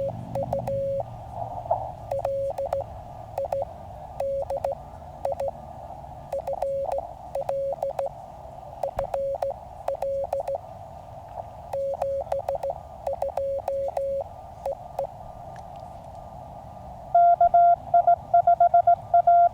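Morse code from a QCX mini CW transceiver: keyed dots and dashes of a single tone over the receiver's hiss, which is confined to its narrow CW filter. Near the end a louder, slightly higher-pitched Morse tone takes over, sending quickly.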